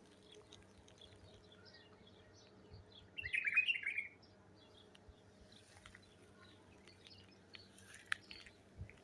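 Small songbirds chirping faintly and on and off, with a brief louder flurry of chirps about three seconds in.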